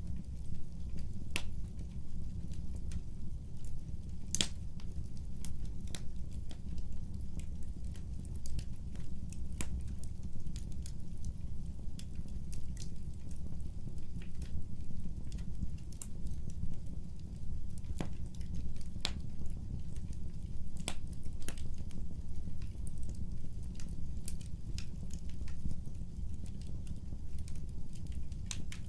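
Wood fire burning: a steady low rumble with irregular sharp crackles and pops scattered throughout.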